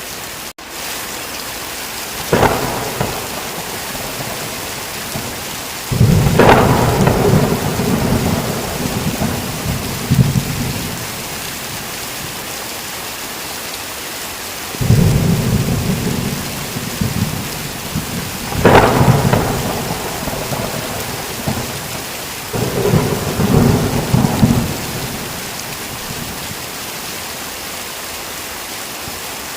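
Steady heavy rain with thunder: a sharp crack about two seconds in, then several long rolling peals, the loudest about six and nineteen seconds in.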